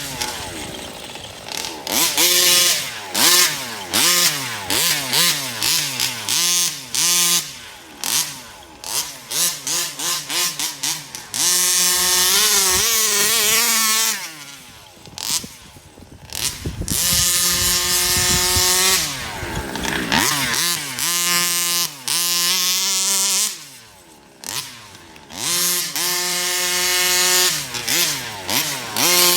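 TMR Performance competition-ported 36cc two-stroke engine in a Rovan FT360R RC truck, revved hard in repeated short bursts of throttle, its pitch rising and falling, with a few longer held high-rev runs.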